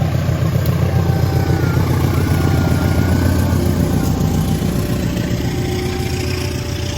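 Diesel locomotive engine running with a steady, loud, low drone, easing slightly toward the end. A faint higher tone repeats about once a second behind it.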